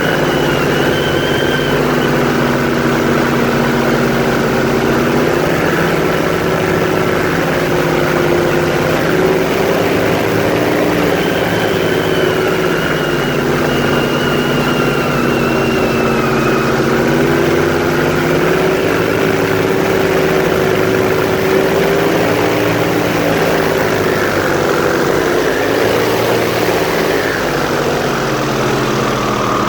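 Airboat engine and its large propeller running: a loud, steady drone whose pitch drifts up and down a little, dipping and coming back up near the end.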